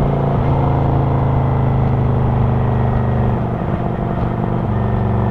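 Kawasaki Vulcan 900 Classic LT's V-twin engine running steadily while riding, easing off a little about three and a half seconds in before settling back.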